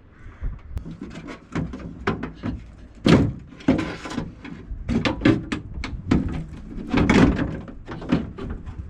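A rapid, irregular run of knocks, clunks and rubbing from hands-on work on a car, like panels or a door being handled and fitted, with the heaviest clunks about three seconds in and again near the seven-second mark.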